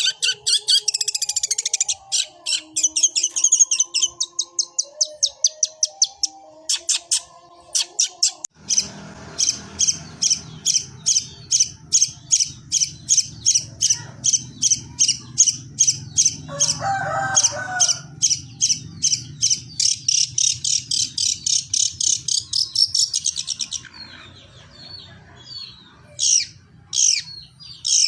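Long-tailed shrike (cendet) singing in rapid runs of sharp, high chirps, several a second, imitating the chatter of Eurasian tree sparrows. Near the end the chirps give way to a few separate, louder falling calls.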